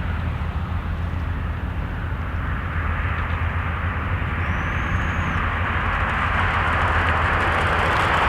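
Diesel locomotives of a slow-moving freight train running, with a steady low engine drone and a rushing noise that grows louder toward the end. A brief high squeal comes about halfway through.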